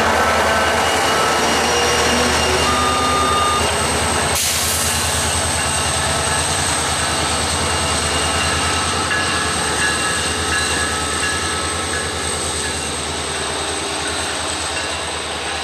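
SunRail commuter train rolling by as it departs: a steady diesel locomotive hum under rail and wheel noise with scattered short high tones, slowly fading.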